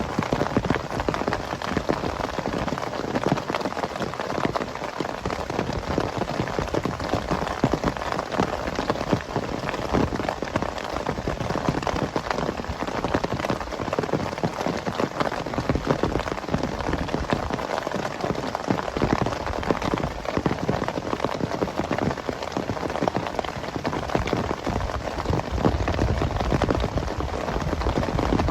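Heavy rain falling steadily, a dense mass of drop impacts on a surface. A low rumble swells in near the end.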